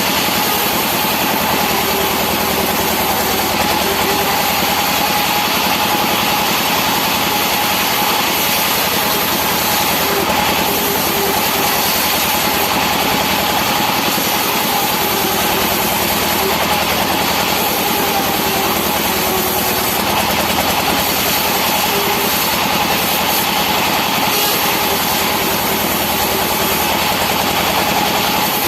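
Sawmill machinery running steadily at a constant loud level, with a steady whine and a lower hum that comes and goes.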